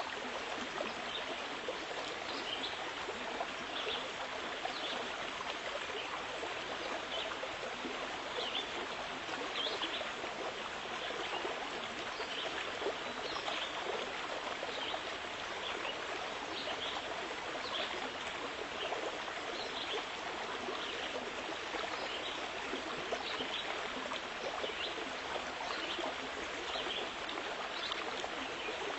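Running water of a stream: a steady rush with small irregular splashes and trickles throughout.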